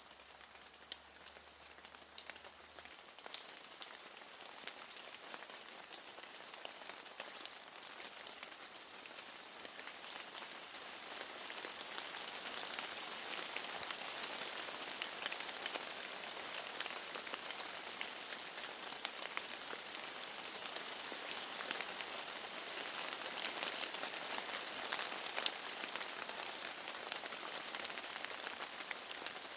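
Steady rain falling, with many small raindrop ticks against a window; it grows louder from about ten seconds in.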